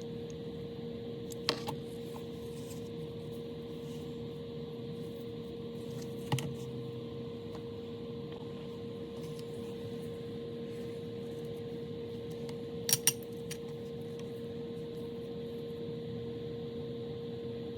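Small metal parts clinking against a hard surface a few times: once about a second and a half in, again about six seconds in, and a quick double clink about thirteen seconds in, over a steady electrical hum.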